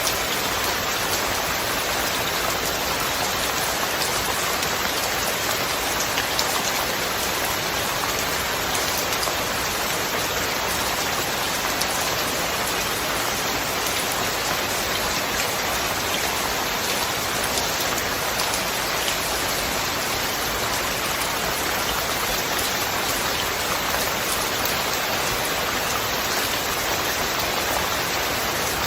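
Steady, heavy rain falling, a dense even hiss with scattered drop ticks.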